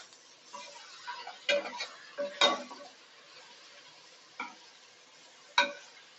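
A spoon stirring chopped tomatoes and green chillies into fried onions in a cooking pan, knocking against the pan four times over a faint sizzle.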